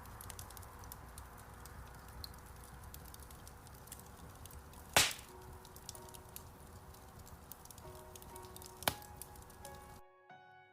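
Wood fire in a fireplace crackling, a constant hiss full of small ticks with two loud pops about 5 s and 9 s in, under slow, soft piano notes. Near the end the fire sound cuts off abruptly, leaving only the piano.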